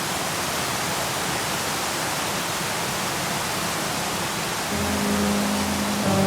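Steady rushing of a large waterfall's falling water. About three-quarters of the way through, background music fades in over it.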